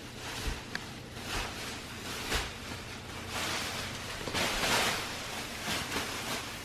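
Large plastic garbage bag rustling and crinkling in irregular swishes as it is handled and climbed into.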